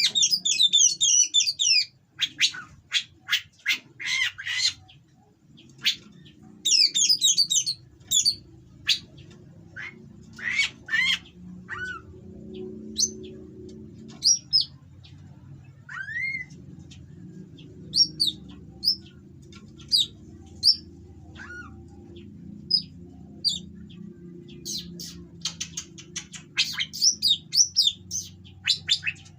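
Oriental magpie-robin singing: runs of fast, harsh, scratchy notes alternate with single short whistles, with a long harsh run near the end. A steady low hum sits underneath.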